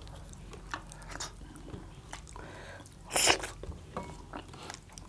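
Close-miked eating sounds: small mouth clicks and smacks of chewing, with one short loud breathy hiss a little after three seconds in.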